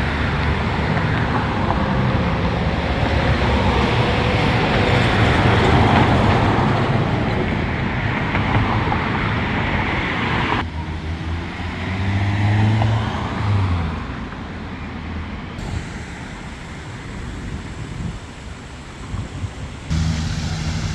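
Steady road traffic noise with low engine hums from passing vehicles. The sound changes suddenly twice, about halfway through and near the end.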